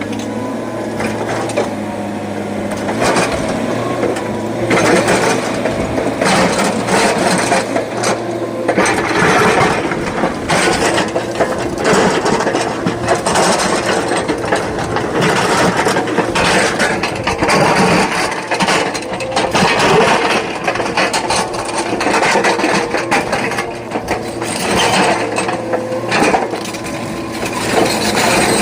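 SANY hydraulic excavator working: engine running steadily, with continual clattering, knocking and scraping of rock and metal as it digs and loads stone.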